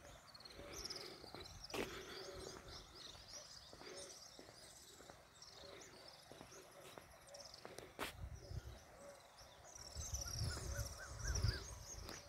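Small birds chirping and twittering over open country, with a row of lower repeated call notes underneath. Two sharp clicks come through, and a low rumble rises near the end.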